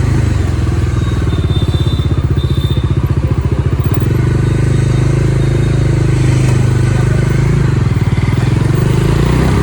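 Motorcycle engine running at steady low revs, heard close up from the bike, with a fast, even firing pulse.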